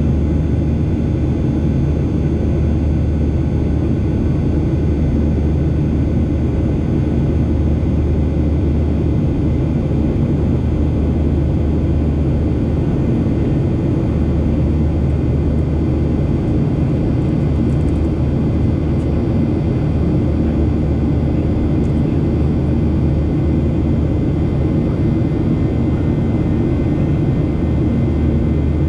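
Steady cabin noise of a Boeing 737 in flight: a constant low engine and airflow rumble with a few faint steady tones above it.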